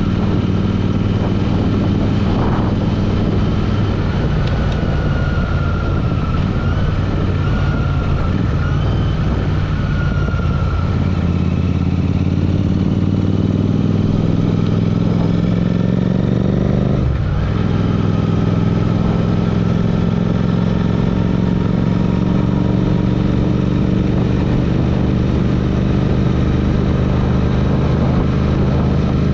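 Royal Enfield Interceptor 650's parallel-twin engine running steadily, its note briefly breaking off and picking up again a little past halfway through.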